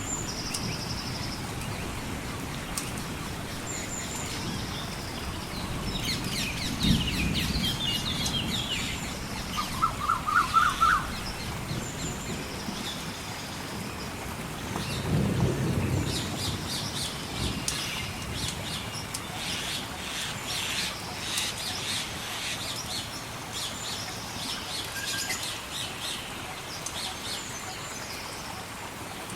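Mixed nature ambience: birds chirping on and off over a steady rain-like hiss, with two low rumbles of thunder, one about seven seconds in and a longer one around fifteen seconds, and a short burst of quick repeated notes about ten seconds in. Light crackling of a log fire runs through it.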